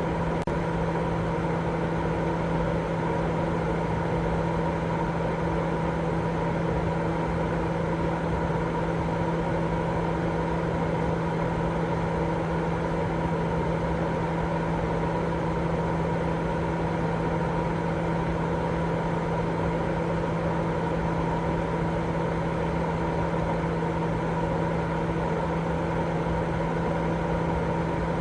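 Continuous baby-sleep 'white noise': a steady, unchanging rushing noise, weighted toward the low end, with a constant low hum and a fainter tone above it, like a running machine.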